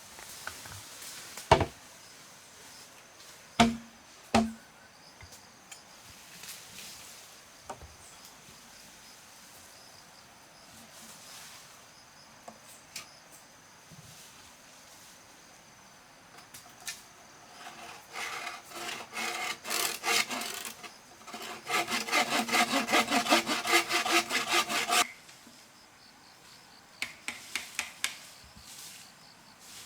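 A hand saw cutting through wood with a run of quick, even strokes in the second half, after a few sharp knocks near the start.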